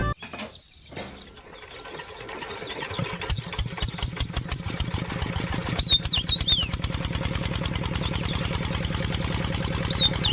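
A small engine starting up: a low, fast pulsing that builds over the first few seconds and then runs at a steady rapid beat, with birds chirping twice.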